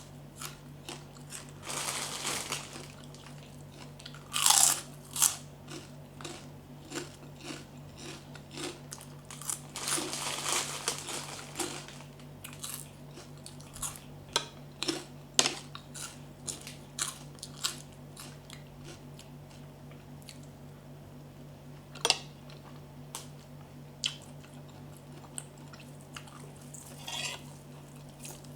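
Close-up crunching bites and chewing of santol salad, made of shredded crisp santol fruit, with the loudest crunches in the first half and sparser chewing clicks later, over a steady low hum.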